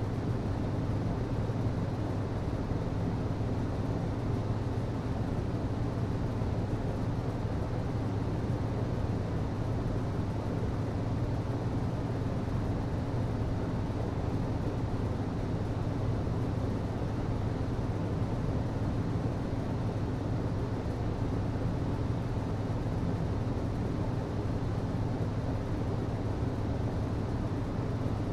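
HVAC system running with a steady low hum and an even rush of air, unchanging throughout.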